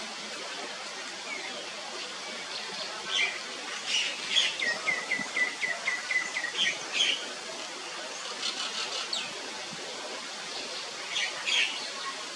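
Small birds chirping, one giving a quick run of about eight short, even, high notes in the middle, with other scattered chirps before and after, over a steady outdoor hiss.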